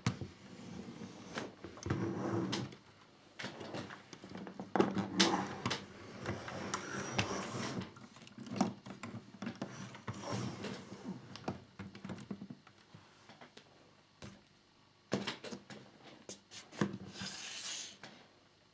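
Small plastic model parts being handled: irregular light clicks, taps and rustles, with a few sharper knocks near the end.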